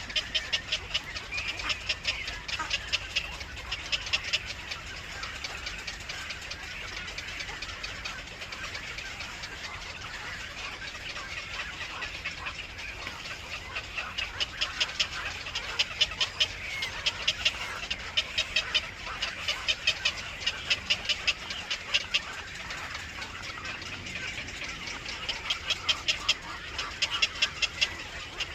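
Baby birds in a nest chirping: rapid, repeated high-pitched calls about three a second, in bouts that swell and fade.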